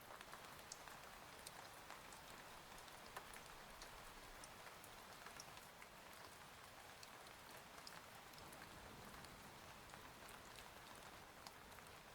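Faint steady rain, with scattered sharp drop ticks over an even hiss.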